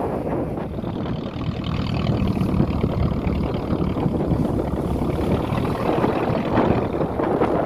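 Passenger motor boat's engine running steadily, a low drone under a rushing noise.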